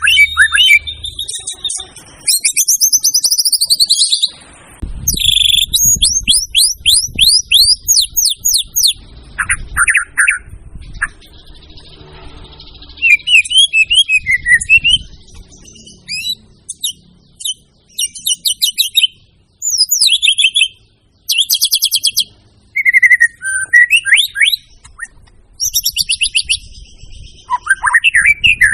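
White-rumped shama (murai batu) in full, continuous song: loud whistled phrases, one after another, mixing rising and falling sweeps with rapid trilled runs of quick repeated notes, separated by short pauses.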